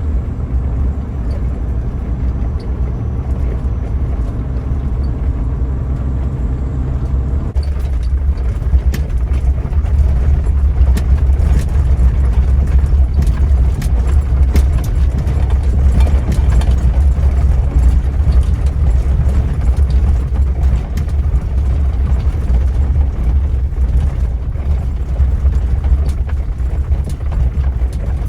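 Suzuki Jimny JA11 on the move: its small engine running steadily under heavy low road and drive noise. The steady engine tone fades into the noise about seven seconds in, and after that many short rattles and knocks come through, as on a rough track.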